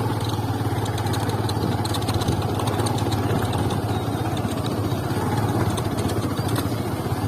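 Motorcycle engine running steadily at an even pace, with a low hum and no change in speed.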